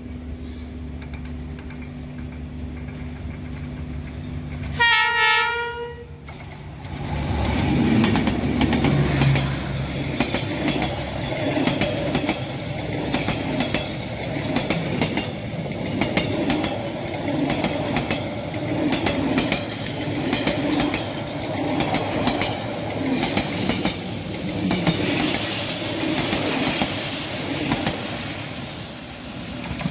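D19E diesel-electric locomotive running steadily, then one loud horn blast of about a second, about five seconds in. The passing train's wheels then clatter over the rail joints in a regular, repeating rhythm.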